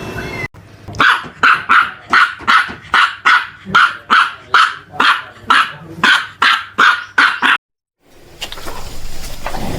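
Dog barking in a steady, even run of about eighteen barks, roughly two and a half a second, that cuts off abruptly.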